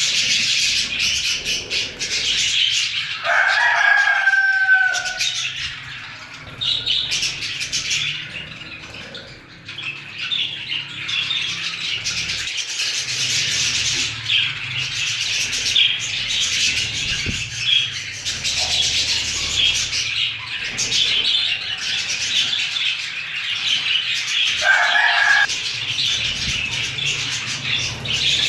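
A flock of budgerigars chattering and warbling, a dense high twittering that never stops. Twice, a few seconds in and again near the end, a louder, lower drawn-out call stands out over the chatter.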